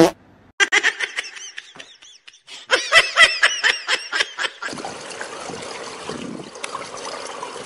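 Rapid, high-pitched giggling laughter in two quick runs, then a steady background hiss from about five seconds in.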